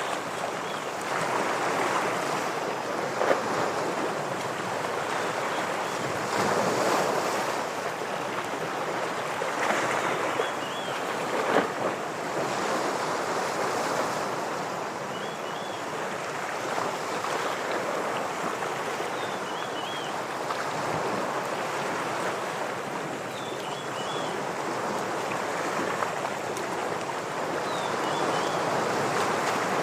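Ocean waves washing against rocks, a steady surging wash that swells and eases. A short high chirping call repeats about every four seconds above it, from about a third of the way in.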